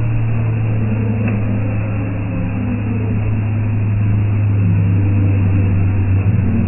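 Mitsubishi Pajero 4x4's engine running with a steady low drone.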